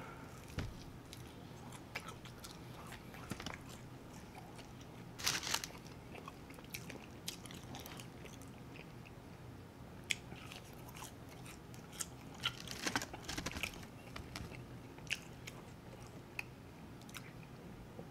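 Chewing and biting on crispy fried chicken wings and fries: wet mouth sounds and sharp crunches, with flurries of crunching about five seconds in and again around thirteen seconds.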